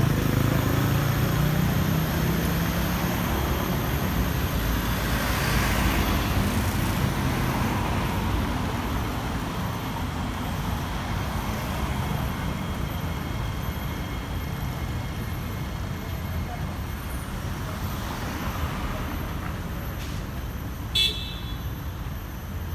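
Steady road traffic noise mixed with the electric traction motors of an SMRT Kawasaki C151B train, easing slightly over time. A brief horn toot sounds near the end.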